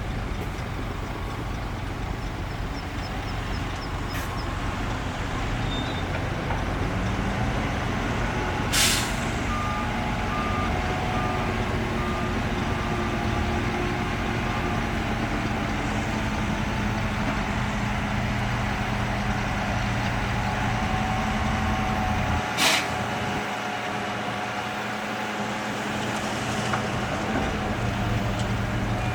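Heavy diesel dump truck engine running steadily, with two sharp air-brake hisses, one about nine seconds in and another about fourteen seconds later. Faint reversing beeps sound after the first hiss.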